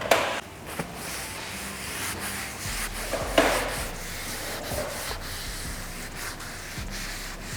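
Hand rubbing over a Peugeot 107's headlight lens, a steady scratchy hiss with one louder stroke about three seconds in.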